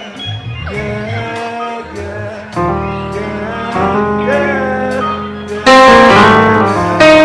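Live worship music: voices singing over guitar and a steady beat. About six seconds in, and again near the end, it turns very loud and distorted, overloading the recording.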